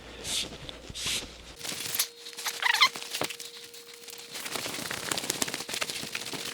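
A cloth wiping the steering box lever shaft in a few rhythmic rubbing strokes. About a second and a half in, light clicks and crackles of parts being handled follow, with a brief squeak.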